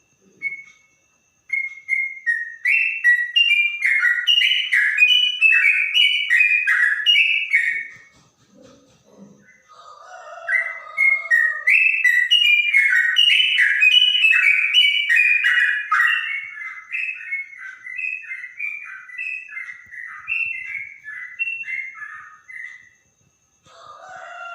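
Yellow-vented bulbul (trucukan) singing clear, rapid runs of warbled notes. There are two long bouts with a pause of about two seconds between them, the second lasting over ten seconds.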